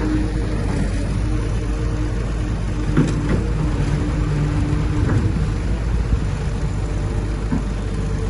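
Heavy diesel earthmoving machinery running steadily at a low, even pitch, with a couple of short clanks about three and five seconds in.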